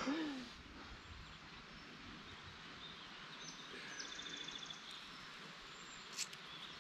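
Quiet outdoor ambience with faint bird calls, including a short rapid high trill about four seconds in, and a soft click near the end.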